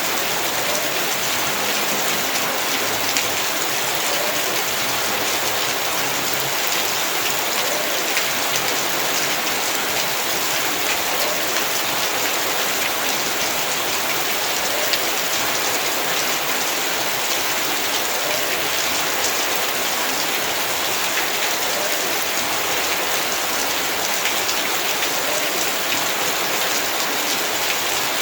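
Heavy rain falling steadily on a yard, an even hiss with the patter of many drops.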